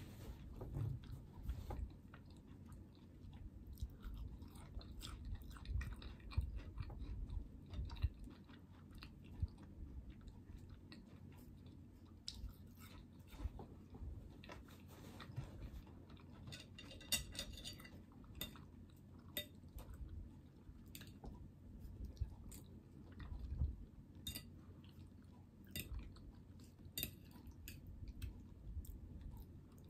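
A person chewing and biting into crisp fried food close to the microphone: scattered crunches and clicks over soft mouth sounds, with a denser run of crunches a little past the middle.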